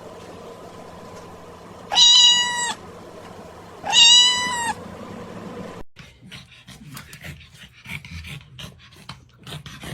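A cat meowing twice, about two seconds apart, each meow short and level in pitch. After that come soft rustling and light clicks.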